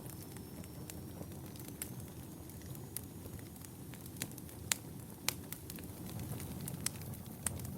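Wood fire burning in a fireplace: a steady low rush of flames with irregular sharp crackles and pops, a few louder pops in the second half.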